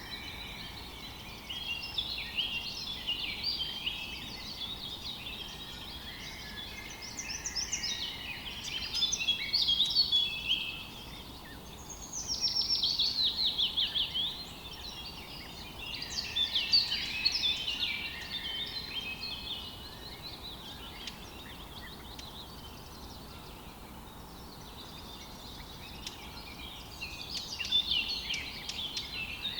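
Several birds chirping and singing at once, a dense chorus of quick chirps and trills, with a louder run of fast repeated descending notes about twelve seconds in, over a faint steady background hiss.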